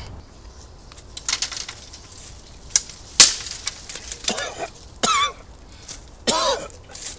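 Scattered sharp snaps and clicks with one loud crack about three seconds in, then a bird gives three short, harsh calls falling in pitch, about a second apart.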